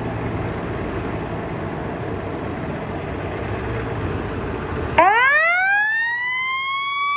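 Fire truck siren winding up: after about five seconds of dense, noisy engine and road rumble, a wail starts suddenly low, climbs steeply in pitch and settles into a steady high tone.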